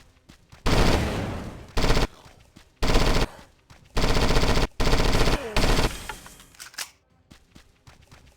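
Automatic gunfire in about six short, loud bursts one after another, the first trailing off slowly.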